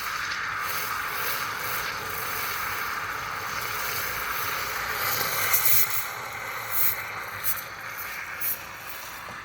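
DeLonghi espresso machine's steam wand hissing steadily as it froths milk in a jug, with a few louder, sharper spurts in the second half.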